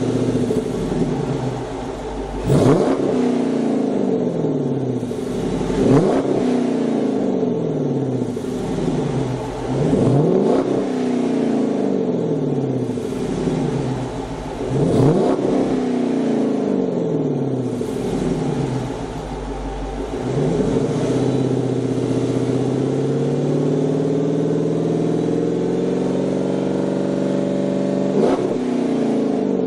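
The 5.7-litre HEMI V8 of a 2009 Dodge Challenger R/T, through a Corsa Xtreme cat-back exhaust, is revved sharply about five times. After each rev the pitch slides slowly back down. Past the middle the revs climb gradually and hold for several seconds before one last quick rev near the end.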